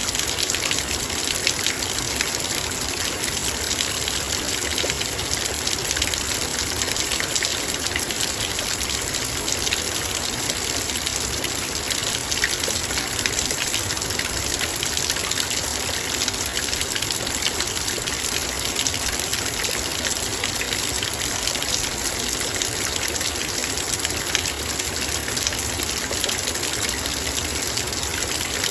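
Heavy rain falling on a metal bowl: a steady rush of water with dense, fine ticks of drops striking the metal.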